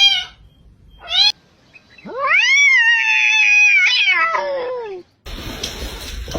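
A domestic cat meowing: a short meow, another about a second later, then one long drawn-out meow lasting about three seconds that sinks in pitch at the end. Near the end a noisy, rustling sound takes over.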